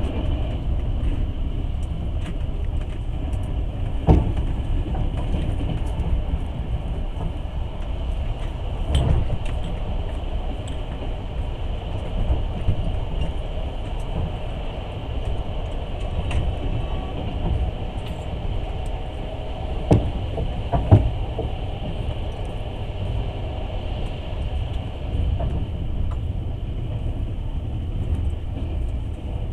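Passenger train running along the rails, heard from inside the carriage: a steady low rumble, broken by a few sharp knocks, the loudest about twenty seconds in.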